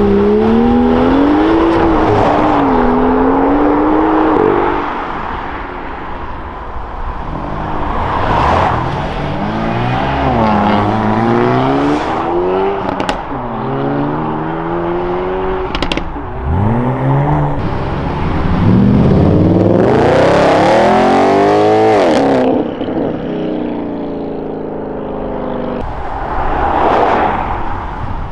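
Several modified cars driving off one after another, their engines revving up through the gears and passing by, with exhaust pops and crackles between revs.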